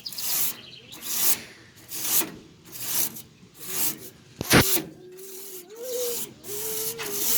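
A brush scrubbing dust off an air conditioner's condenser coil fins in repeated strokes, about one a second. One sharp knock comes a little over halfway through.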